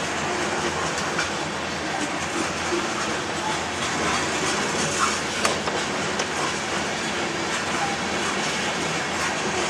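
Freight train of covered hopper cars rolling past: a steady rumble of steel wheels on rail with clickety-clack and a few sharp clicks.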